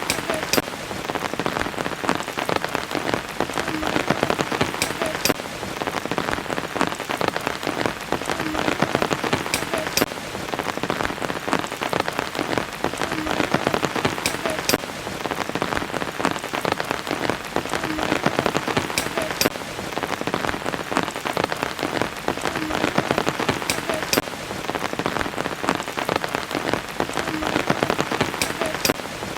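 Steady rain falling, with many sharp individual drop hits over the even hiss. The same pattern repeats about every five seconds, as a looped rain recording does.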